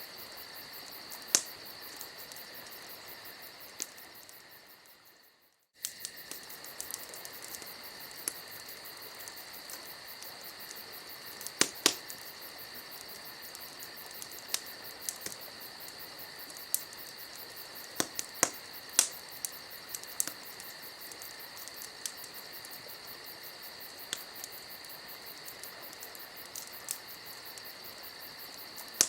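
Campfire crackling, with scattered sharp pops, over a steady high-pitched chorus of insects. The whole bed fades away a few seconds in and cuts back in suddenly about six seconds in.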